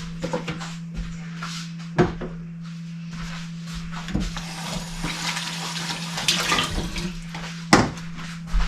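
Water running and splashing while a humidifier's plastic tank and parts are rinsed. Hard plastic knocks about 2, 4 and 8 seconds in, over a steady low hum.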